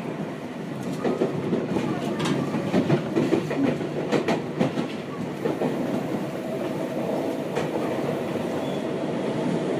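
Running noise inside a Seibu 6000 series commuter train at speed, with the wheels clattering over rail joints, most in the first half, over a steady rumble.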